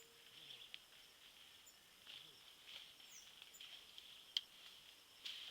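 Near silence: faint insect chirring that swells and fades, with scattered small clicks and one sharper click about four seconds in.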